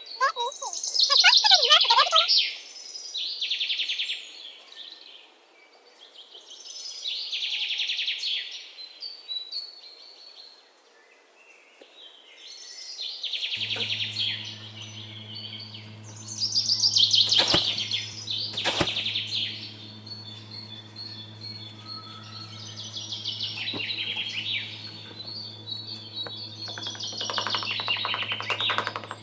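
Small birds chirping and twittering in repeated high phrases every few seconds. About halfway through a steady low hum sets in and continues, and two sharp clicks follow shortly after.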